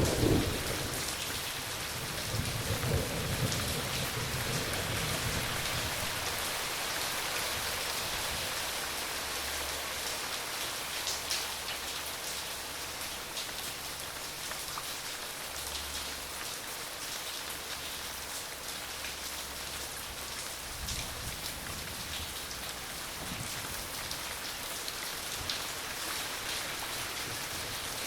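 Steady rain falling, with a roll of thunder dying away over the first few seconds and a fainter low rumble of thunder about three quarters of the way through.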